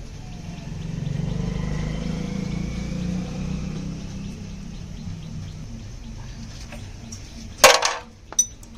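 Honda Activa's single-cylinder four-stroke scooter engine running, swelling briefly with a light rise in pitch about a second in, then settling back. Near the end a loud sharp clack rings out, followed by a smaller click.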